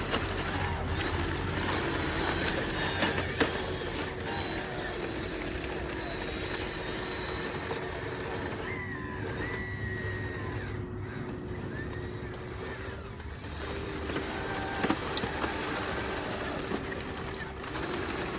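Small electric motor of a radio-controlled construction machine running with a steady whine, which breaks off briefly about 13 seconds in and resumes, with a few light clicks.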